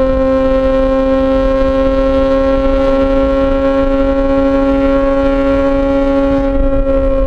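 Yamaha XJ6 S's inline-four engine through an SC-Project aftermarket exhaust, running at steady revs while cruising, its exhaust note holding one pitch.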